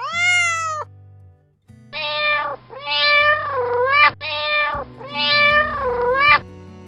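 A kitten meowing: one short rising meow at the start, then after a pause a run of four meows, some long with a dip in pitch, over soft background guitar music.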